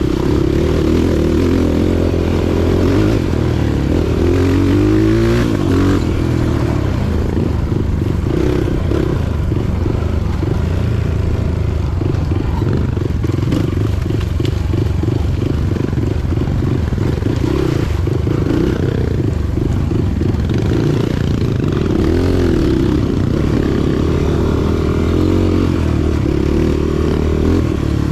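Motorcycle engine running while being ridden, its pitch rising and falling a few times as the throttle is opened and eased.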